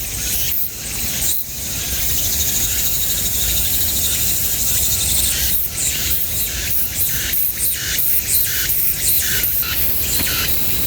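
A steady, high-pitched drone of insects, with rough rubbing and rumbling noise on the microphone underneath.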